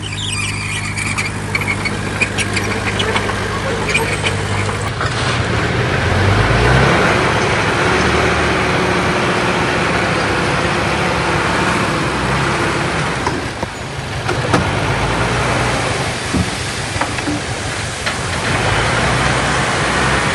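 Heavy diesel earthmoving machinery at work: a steady engine note, then louder and noisier from about five seconds in as the machine works under load.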